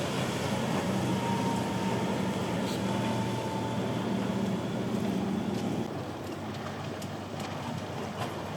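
Boat engines running as a boat passes through the inlet, heard over wind and surf. The low engine drone drops away about six seconds in.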